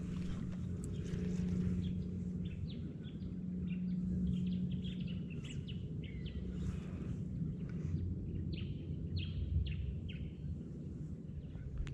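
Small birds calling, a string of short, quick falling chirps repeated many times, over a steady low hum.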